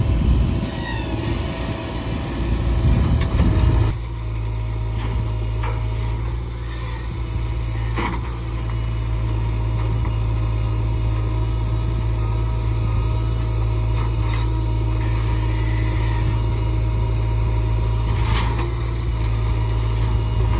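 Heavy diesel engine running steadily at low revs, with a few short knocks over it. The sound shifts abruptly about four seconds in.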